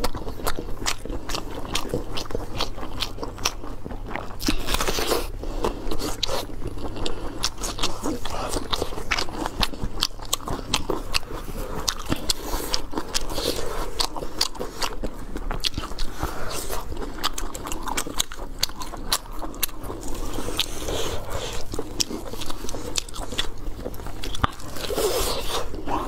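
Close-miked eating: people biting and chewing food, with many sharp crunches and crackles.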